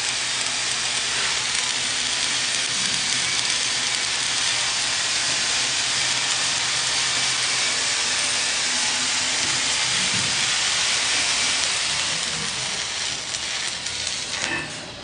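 Stick-welding arc crackling steadily as a 7018 electrode burns in a vertical-up pass, an even crackle of an arc held tight. The crackle fades out near the end, followed by a few sharp metallic clicks.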